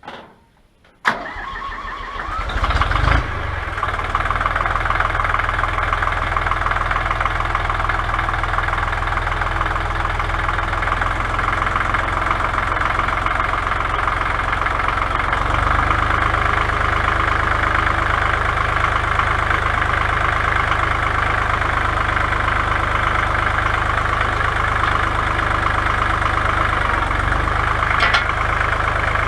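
Tractor engine cranked and starting about a second in, catching after a couple of seconds, then idling steadily.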